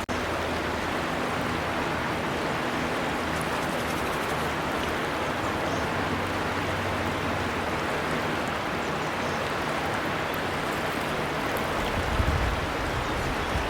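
River water flowing steadily, an even rushing wash, with a brief dropout at the very start.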